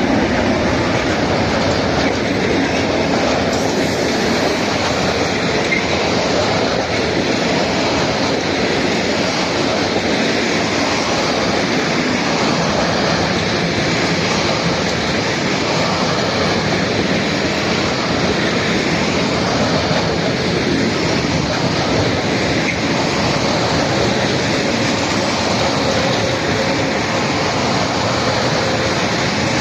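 Freight train wagons rolling through the station: a steady, unbroken noise of wheels running on the rails.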